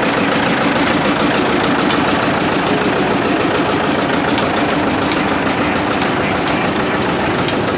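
Engine of a 1959 John Deere tractor (68 horsepower) running steadily, with a rapid, even beat of firing strokes.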